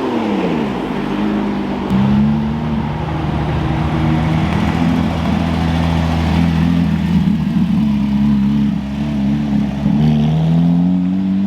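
A car engine running. Its revs drop in the first second, then it runs steadily at low revs, and it picks up slightly near the end.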